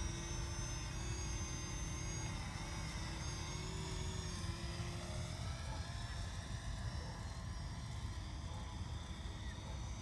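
Faint whine of a Parrot Anafi quadcopter's motors and propellers in flight, its pitch wavering up and down, over a low rumble of wind and handling noise.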